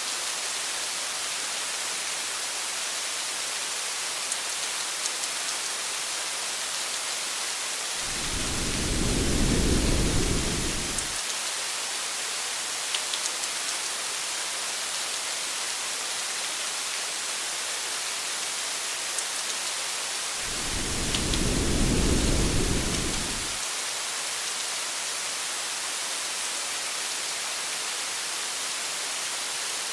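Steady rain with two low rumbles of thunder, each lasting about three seconds, the first about eight seconds in and the second about twenty seconds in.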